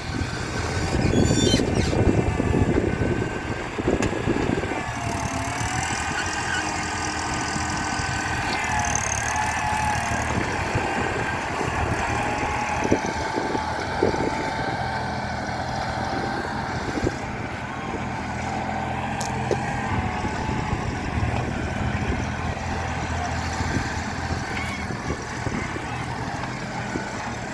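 Mini backhoe loader's engine running steadily, with a whine that rises and falls in pitch as the hydraulics move the arm, and a few scattered knocks.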